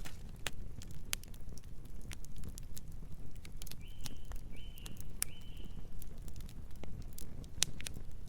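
Campfire burning, with sharp irregular crackles and pops over a steady low rumble. Three short, high chirps sound one after another around the middle.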